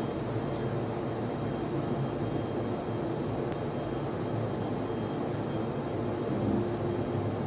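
Steady whir of server-room cooling fans in network switches and servers, with a faint high tone above it and one faint click about three and a half seconds in.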